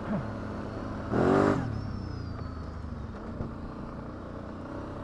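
ATV engine running steadily at low speed, with one brief rev about a second in.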